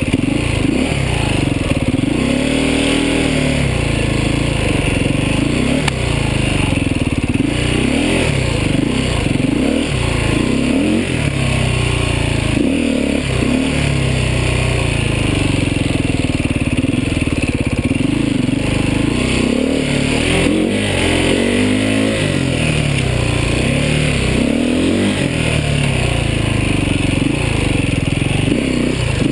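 Beta 450 RR enduro motorcycle's four-stroke single-cylinder engine being ridden hard, revving up and dropping back over and over as the throttle is worked.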